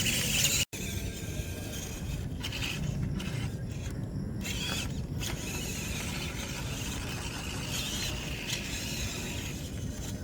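Small electric RC off-road car (MN99S D90) driving, its motor and gear train whining as the throttle comes and goes, with scraping from the tyres and chassis on the track.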